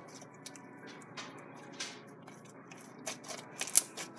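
Foam-bead slime being kneaded by hand, giving scattered soft crackles and pops from the beads, with a cluster of louder clicks about three to four seconds in.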